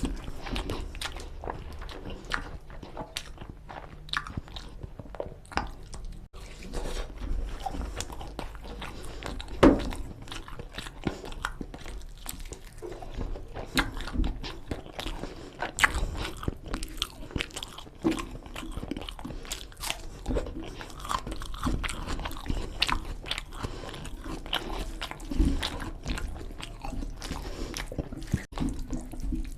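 Close-up eating sounds of a person chewing mutton curry with rice: irregular wet smacks, bites and crunches follow one another with no steady rhythm.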